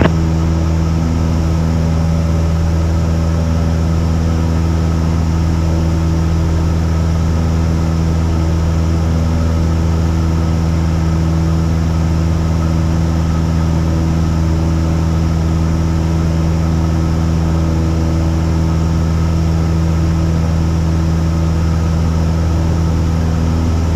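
Cessna 172's piston engine and propeller running at a steady, unchanging power: a constant low drone.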